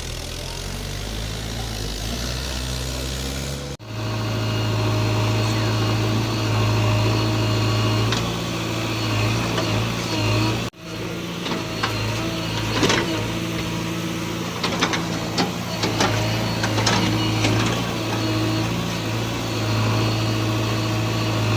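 Heavy diesel engines running steadily: a backhoe loader working beside tractors waiting with trolleys. Several sharp metallic clanks and knocks come through the middle, and the engine sound breaks off abruptly twice at cuts.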